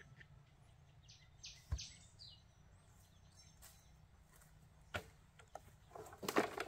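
A few short, high bird chirps about one and a half to two seconds in, over faint background noise. There is a sharp knock among them, another near five seconds, and a cluster of clattering and rustling near the end, which is the loudest part.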